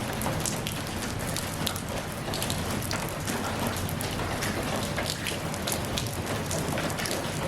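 Steady rain falling, an even hiss dotted with many separate drop ticks hitting a surface.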